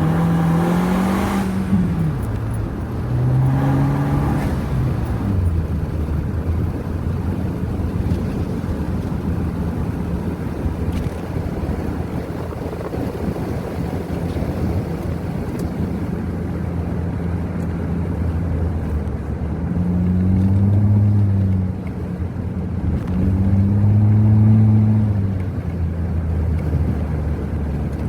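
2012 Acura RDX's turbocharged 2.3-litre four-cylinder, with the rear mufflers cut out and a Magnaflow glasspack resonator in the exhaust, pulling under acceleration in paddle-shift manual mode. Its revs climb and fall twice at the start, hold steady at a cruise, then climb and fall twice more near the end.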